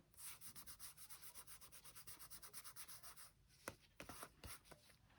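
Quick rhythmic rubbing on paper, about eight short rasping strokes a second for about three seconds, then a few light ticks.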